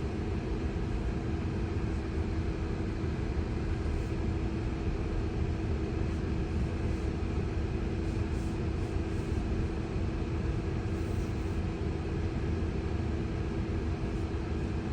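Steady cabin noise inside a slow-moving Tesla: a low, even road and tyre rumble with a steady hum running through it.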